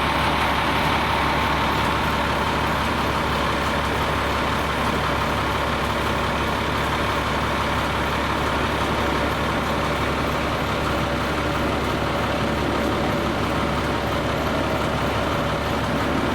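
A large truck engine idling steadily with no change in speed.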